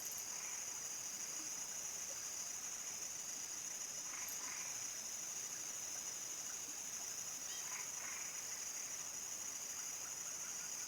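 A chorus of crickets chirring in one continuous high trill, with two brief fainter calls from other animals about four and eight seconds in.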